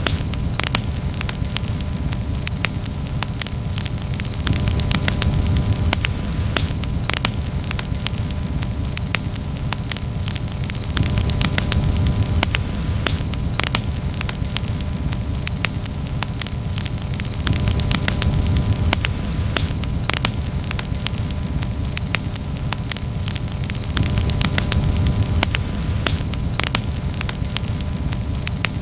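Wood campfire crackling, with many quick sharp pops over a steady low rush that swells and eases every few seconds.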